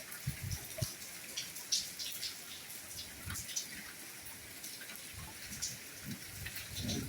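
Soft rain falling: a steady hiss scattered with many sharp drop ticks, and now and then a dull, low plop from a heavier drop.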